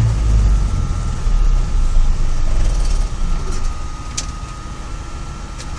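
GAZ-66 truck's rebuilt engine running, with a fan making most of the noise: a steady low rumble that drops in level about three seconds in, and a faint steady whine above it.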